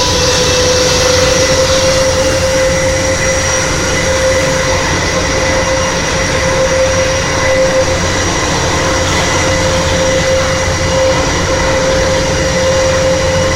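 Aircraft engines running steadily: a loud, even rushing noise with a constant high whine over it.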